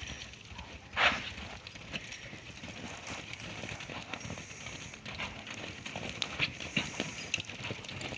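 Horses' hooves on the ground as several horses move about, a scatter of irregular knocks and steps, with one brief louder sound about a second in.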